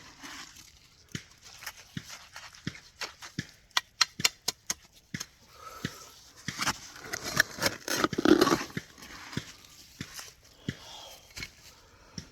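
Digging and scraping in a wet, mucky hole: a string of short scrapes and clicks, with a quick run of taps about four seconds in and a louder rustling scrape around eight seconds in.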